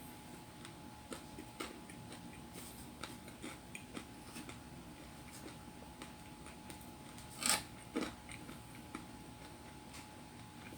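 Quiet chewing of pizza with small mouth clicks scattered throughout, and two louder short noises about seven and a half and eight seconds in. A faint steady hum runs underneath.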